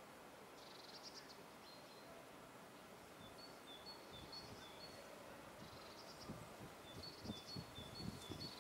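Small songbirds calling faintly: repeated short high notes alternating between two pitches, and brief buzzy chirps. A few low, soft thumps come in the last couple of seconds.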